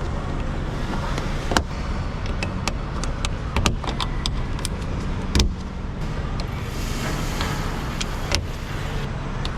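Plastic and metal front-end parts being handled and fitted on a car, giving scattered sharp clicks and knocks over a steady low hum.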